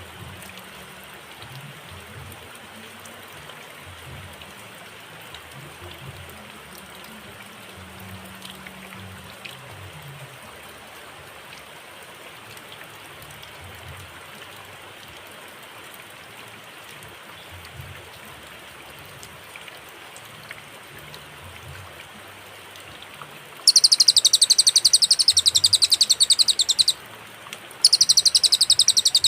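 Cililin singing two long, very rapid high trills, the first starting a little after twenty seconds in and the second a second after it ends, against a steady background hiss. Before the trills there is only the hiss: the song comes in separate phrases with long pauses between.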